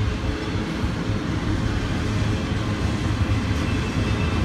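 Double-stack container train's well cars rolling past on a bridge: a steady rumble with rapid clatter of steel wheels over the rails.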